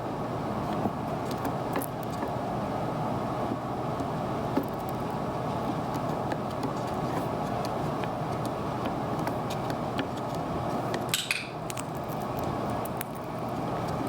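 Scattered light clicks and taps of an Indian ringneck parrot's beak and feet against sunglasses and the tabletop, over a steady room hum. A brief higher sound comes about eleven seconds in.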